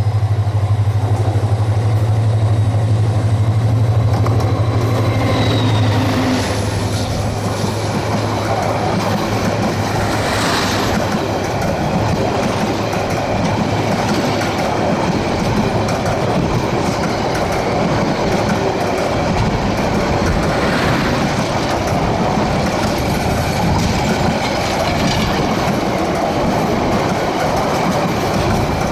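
A Rotem-built EMD meter-gauge diesel locomotive passes close with a steady low engine drone. About six seconds in, the drone gives way to the coaches of a long passenger train rolling past, with continuous wheel-on-rail rumble and clatter.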